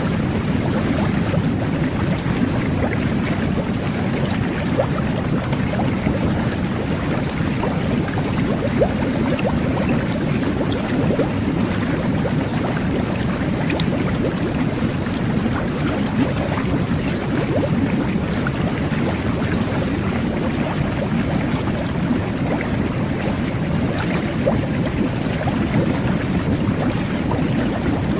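Jet bath (whirlpool tub) jets churning the bathwater: a steady, low rushing bubbling with small pops scattered throughout.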